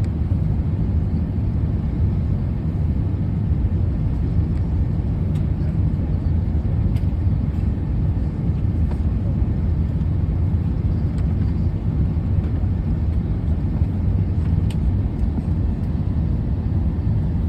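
Steady low rumble of a vehicle in motion, with a few faint ticks.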